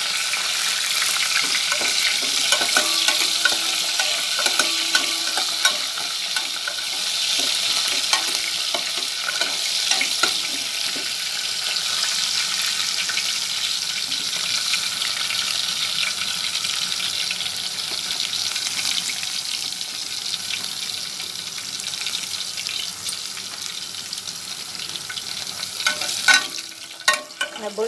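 Chopped garlic and spring onion frying in oil in a pan, a steady sizzle. A metal turner scrapes and clicks against the pan as they are stirred, with a few louder knocks near the end.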